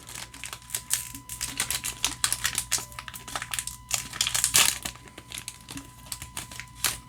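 Foil Pokémon booster pack wrapper crinkling and rustling as it is handled, a fast, uneven run of small crackles.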